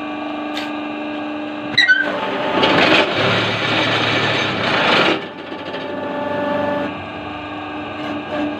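Paving-block making machine running with a steady hum. About two seconds in there is a sharp clack, followed by roughly two and a half seconds of loud, harsh rattling noise, after which the steady running continues.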